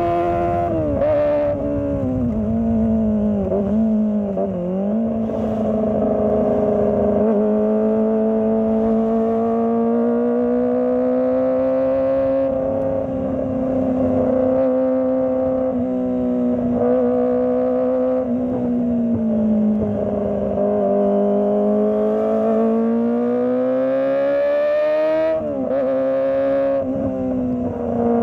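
Kawasaki ZX25R's inline-four engine running under the rider's throttle, its note dropping sharply at the start as the throttle is rolled off, then holding a steady mid-range pitch with gentle rises and falls. Near the end it climbs, dips sharply for a moment and settles again.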